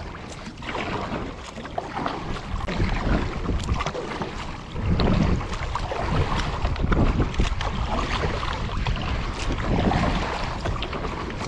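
Wind buffeting the microphone out on the water from a kayak, a rough rumbling noise that gets louder about halfway through.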